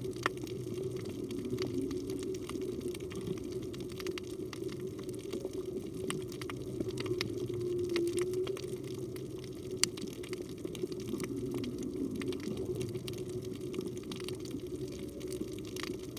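Underwater reef ambience: a steady low rush of water with many scattered sharp clicks, and faint, low, drawn-out humpback whale song tones a few times, one about halfway through.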